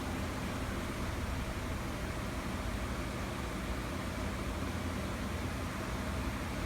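Suzuki GS400 motorcycle engine running steadily with an abnormal mechanical noise, which the owner puts down to play in a piston pin.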